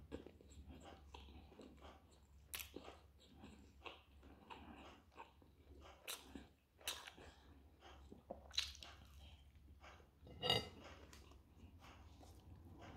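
A person quietly chewing a bite of pljeskavica burger in a bun: scattered small mouth clicks and smacks, the loudest about ten and a half seconds in.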